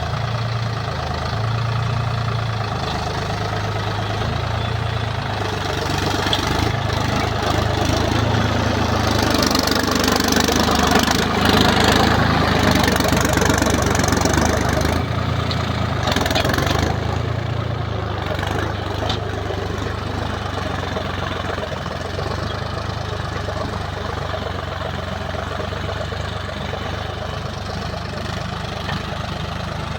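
Sonalika Tiger DI 50 tractor's diesel engine running steadily while ploughing, growing louder and noisier for several seconds in the middle.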